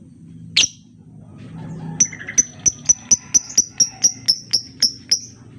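Lovebird calling: one sharp high call about half a second in, then a quick run of about fourteen short, high chirps at roughly four a second, over a steady low hum.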